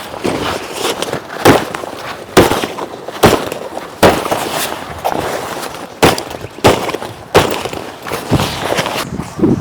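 Dry wood cracking sharply over and over, about one crack a second, with crackling and rustling between the cracks.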